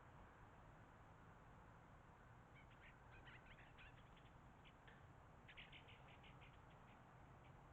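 Faint, quick bird chirps in two short bursts, the first about two and a half seconds in and the second near the middle, over a low background hum.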